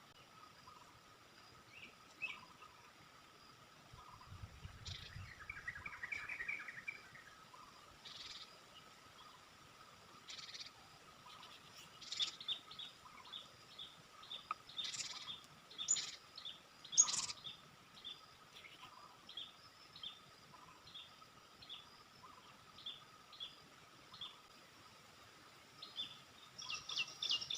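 Small songbirds chirping in short, repeated high calls, with a brief warbling trill about five seconds in; the calls come faster and denser near the end. A faint steady tone runs underneath.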